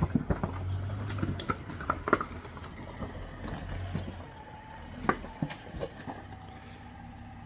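Off-road 4x4 engine running at low revs while crawling a rock line, with scattered knocks and clicks; the engine hum eases about five seconds in.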